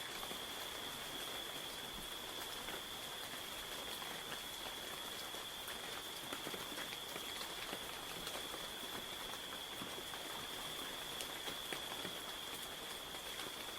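Heavy rain falling, an even hiss dotted with the ticks of single drops, under a cricket's steady, unbroken high-pitched trill.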